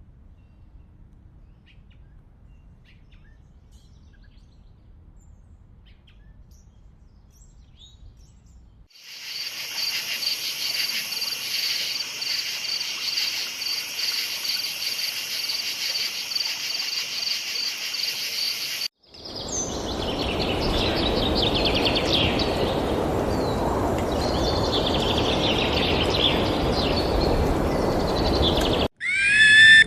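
Nature ambience in three cut-together parts: a faint low rumble, then a steady, rapidly pulsing insect chorus from about nine seconds in, then a louder rushing background with birds calling over it from about nineteen seconds.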